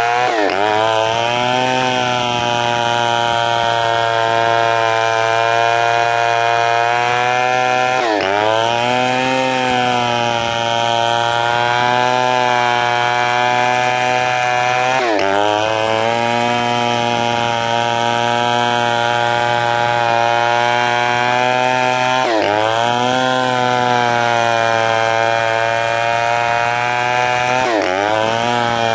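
Two-stroke chainsaw engine running steadily at high speed, its pitch dropping sharply and recovering about every seven seconds.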